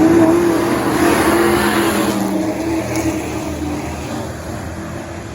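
A pack of race trucks running at speed on the oval, engines at full throttle, the sound fading as the field moves away.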